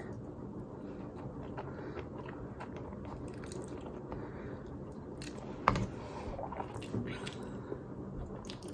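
Quiet mouth sounds of a person eating spaghetti carbonara: chewing with small wet clicks as noodle strands are drawn in. A single sharper click comes a little past halfway.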